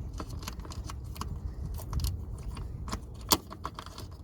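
Light metallic clinks and taps of hand tools and metal parts being handled, with one sharper click about three seconds in.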